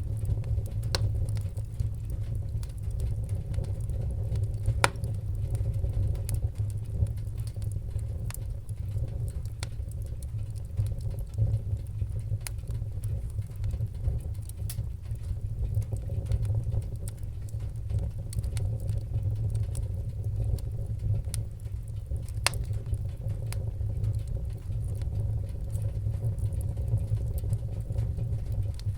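Fireplace fire crackling: a steady low rumble of flames with scattered sharp pops and snaps, two of them louder, about five seconds in and past twenty seconds.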